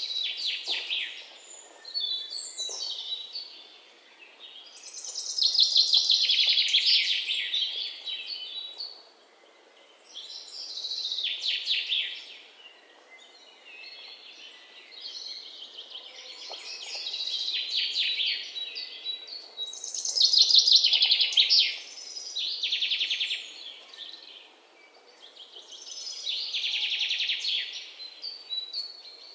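Songbirds singing: repeated phrases of rapid, high trilled chirps, each lasting one to three seconds and coming every few seconds, over a faint outdoor hiss.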